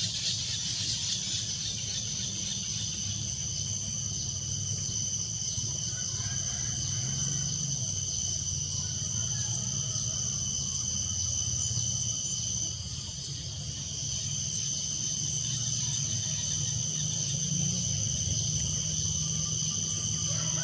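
Insects chirring in a steady, continuous high-pitched drone, which dips briefly about halfway through, with a low steady rumble underneath.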